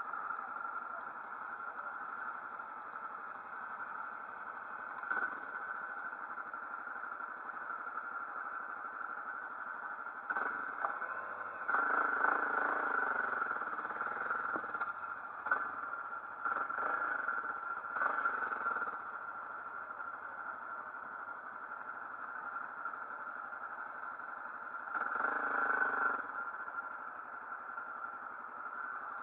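Motorcycle engine running steadily, with louder stretches about ten to nineteen seconds in and again around twenty-five seconds.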